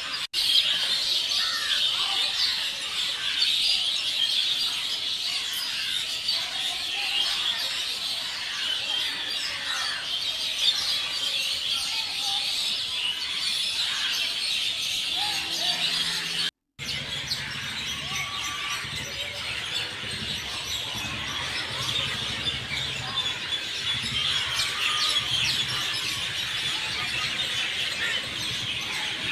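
Outdoor nature ambience: a dense, high-pitched chorus with scattered bird chirps and calls over it. There is a brief dropout just past halfway, after which a low hum joins in.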